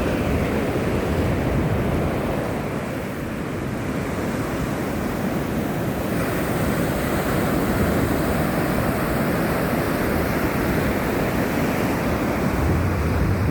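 Sea surf breaking and washing on a beach, steady and quite loud, with wind rumbling on the phone's microphone.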